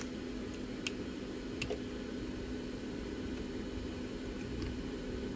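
A small electric fan running with a steady low hum, with a few faint light clicks of a hand tool during the first two seconds.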